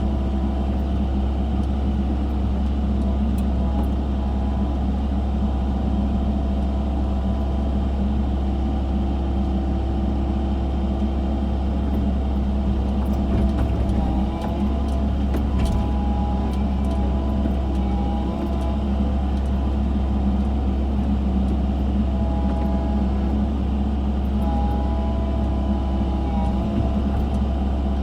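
Diesel engine of an excavator running steadily under load while digging, a deep rumble with steady whining tones that shift in pitch about halfway through and again near the end.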